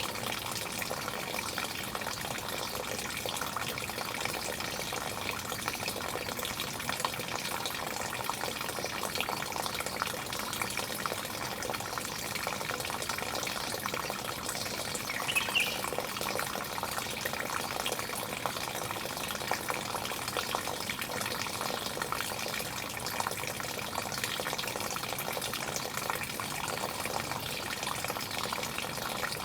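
Running water splashing steadily, with a short high chirp about halfway through.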